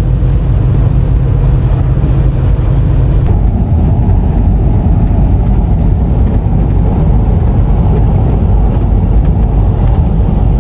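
A vehicle running: a loud, steady low rumble of engine and road noise that fills out a little about three seconds in.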